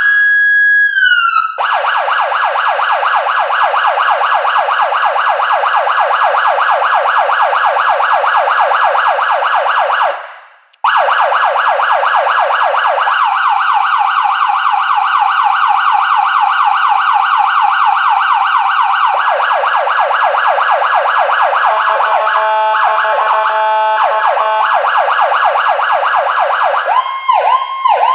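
Whelen 295SLSA1 electronic siren played through two 100-watt speakers inside an aircraft hangar, sounding a very rapid warbling tone for most of the time, cutting out briefly about ten seconds in. Later it changes to a stepped, choppy pattern, then to a slower yelp rising and falling about three times a second near the end.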